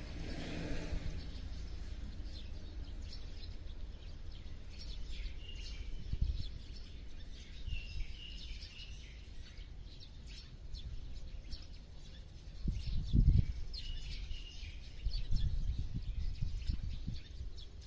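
Small birds chirping with many short, high calls. A low rumble runs underneath and swells into louder bursts about two-thirds of the way through and again near the end.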